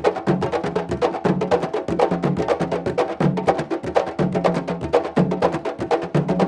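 Candombe drumming: drums struck with stick and hand, a quick run of sharp wooden clicks over a low drum tone that comes back about once a second.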